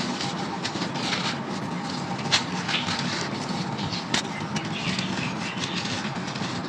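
Crunchy baked sand or clay being crumbled and crushed in a clay pot: a dense run of small gritty crackles, with a sharper crack about two and a half seconds in and another about four seconds in.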